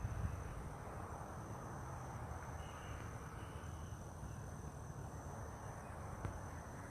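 Steady high-pitched drone of insects, with a fainter, even higher whine above it, over a low rumble of outdoor ambience. A brief higher call comes in about two and a half seconds in and lasts under a second.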